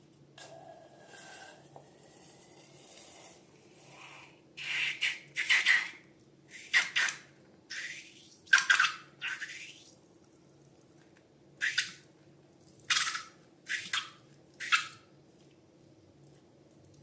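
Slime squeezed and squished by hand: a run of about a dozen short, sticky squelches, starting about four seconds in and stopping a couple of seconds before the end.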